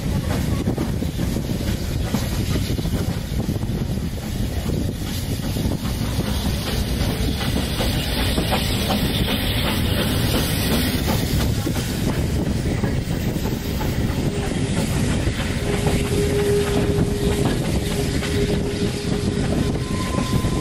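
Railway carriage rolling along the track: a steady rumble with the wheels clicking over the rail joints. A faint steady whine joins in about two-thirds of the way through.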